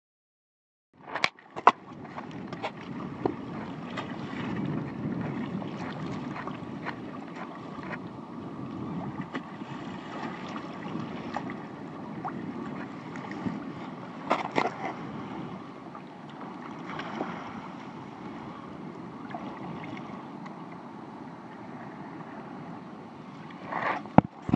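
Water and wind noise from a sea kayak on the move, starting about a second in, with a few sharp knocks: a loud pair at the start, one around the middle, and one near the end.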